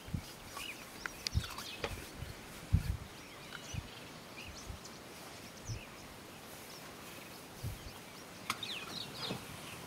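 Scattered short bird chirps over a steady background hiss, with occasional brief low bumps, the strongest nearly three seconds in.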